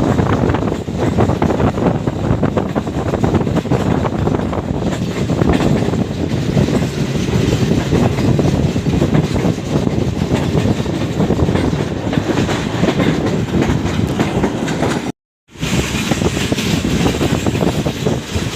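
A passenger train running at speed, with steady rumbling and the clickety-clack of its wheels over the rail joints. The sound drops out completely for a moment about fifteen seconds in, then resumes.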